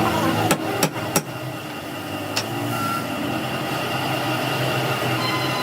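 Steady mechanical hum with four sharp knocks, three of them close together in the first second or so and one more a second later.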